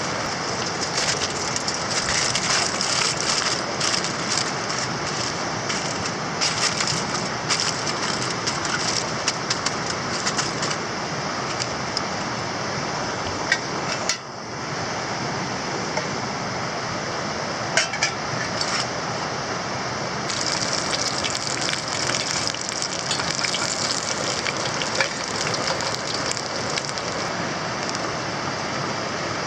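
Wood campfire crackling and popping, with a few sharper snaps, over a steady rushing background noise. The crackle thins out for a while around the middle, then picks up again.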